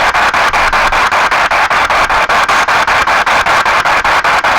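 P-SB7 spirit box sweeping through radio frequencies: loud hissing static chopped by short gaps about six or seven times a second as it hops from station to station.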